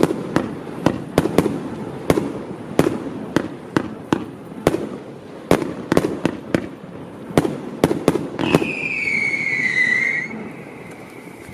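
A 65-shot firework cake of mixed 27 mm and 20 mm tubes firing: a rapid, irregular string of sharp bangs, about two or three a second. Near the end, a loud whistle sounds for about two seconds, falling slightly in pitch.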